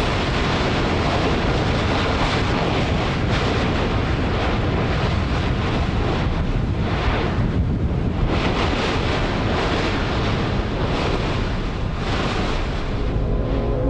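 Loud, steady rushing of wind buffeting the microphone, rising and falling a little in strength.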